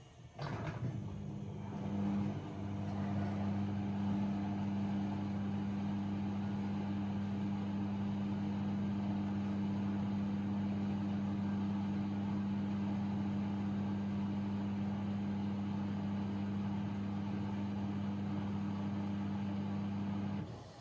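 AEG Lavamat 6610 washing machine with a pump switching on and running at a steady hum for about twenty seconds, then cutting off suddenly; most likely the drain pump emptying the drum.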